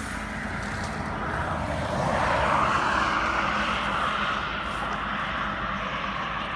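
A machine running with a steady noisy drone that swells louder about two seconds in and eases back a couple of seconds later.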